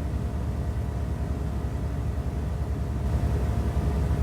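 Steady low rumble with a faint hum, running evenly without a break.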